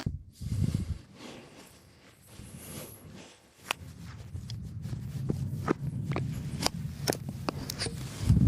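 Wooden sticks being handled and fitted together at a carved notch, with rustling and about half a dozen sharp wooden clicks and knocks scattered through the second half.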